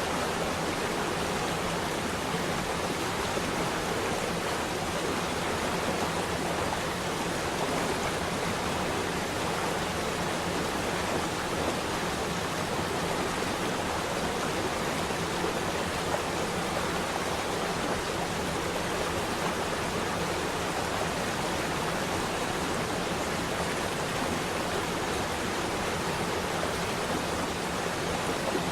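Flowing water rushing steadily, a continuous even hiss of a stream or small waterfall.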